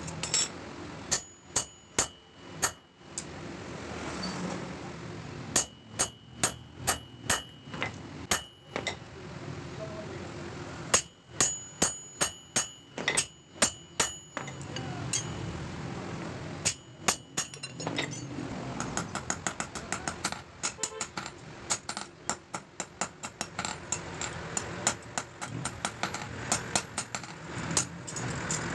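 Blacksmith's hammer striking steel on an anvil, forging a knife from a bearing: runs of ringing metallic blows with short pauses between them, then a long run of quicker, lighter strikes in the second half.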